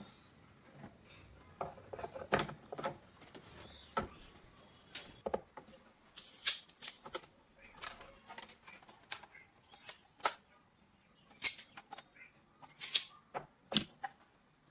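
Irregular clicks, taps and short scrapes of hand work on small hard pieces, the loudest strokes coming in little clusters in the second half.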